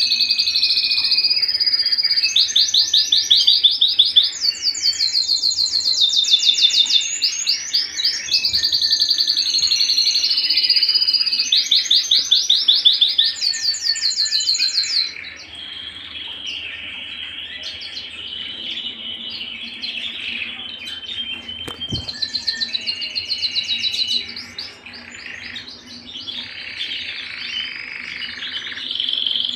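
Domestic canary singing a long song of rapid trills and rolls, each made of fast, evenly repeated notes. The song is loud for the first half, softer from about halfway, and swells again near the end.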